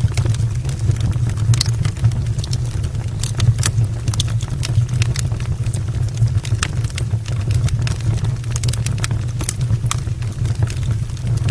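Wood logs burning in an open brick fireplace: a steady low rumble of flames with irregular sharp crackles and pops.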